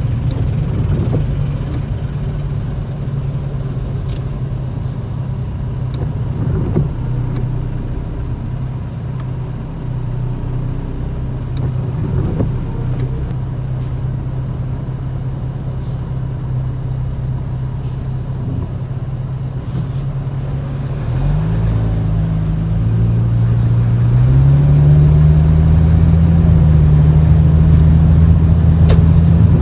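Toyota Chaser GX100's 2.0-litre straight-six droning through a Reinhart cannonball aftermarket exhaust with a mid-pipe silencer, heard from inside the cabin at low speed. About two-thirds of the way through, the note gets louder and rises in pitch as the car accelerates, then holds steady.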